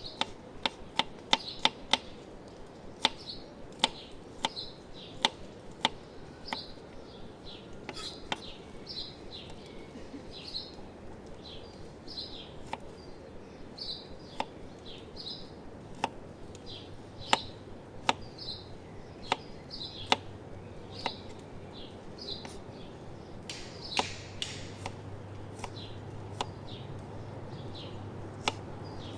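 Knife chopping on a wooden cutting board in sharp, irregular strokes, roughly one a second. Small birds chirp repeatedly in short high calls behind it.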